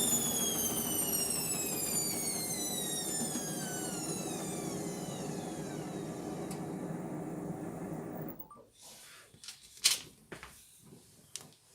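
Indesit MTWC71252WUK washing machine's drum spinning down after a spin: the motor whine falls steadily in pitch and then stops about 8 seconds in. A few sharp clicks follow.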